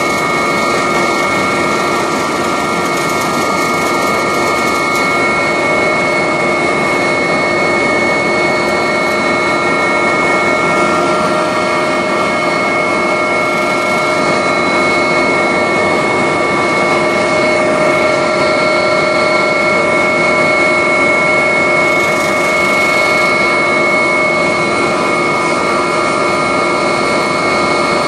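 Agusta helicopter's turbine engines and rotor running steadily in flight, heard from inside the cabin: a constant loud rush of noise with a steady high turbine and gearbox whine.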